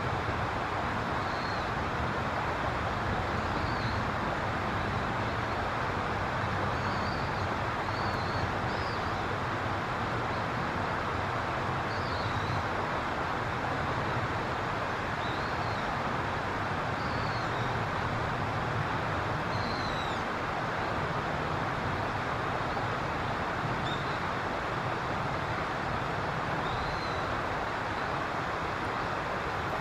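Steady outdoor background hum of distant traffic, with faint high bird chirps every second or two.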